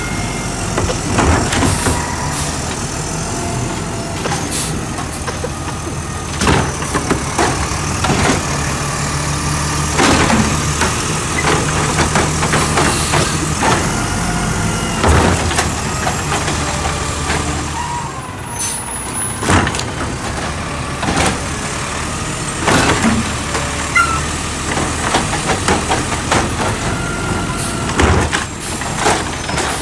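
Garbage truck engine running steadily, with repeated sharp metallic bangs as trash carts are knocked against the hopper to empty them.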